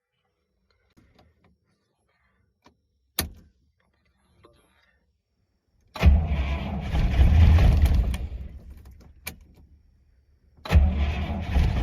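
GAZ 21's four-cylinder engine being started on fuel poured into the intake manifold after years of sitting: about six seconds in it cranks and fires, runs for a couple of seconds and dies away, then fires up again near the end. A sharp click comes about three seconds in.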